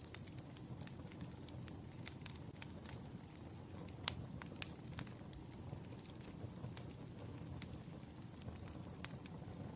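Wood fire burning, crackling with irregular sharp pops over a steady low rumble, with the loudest pop about four seconds in.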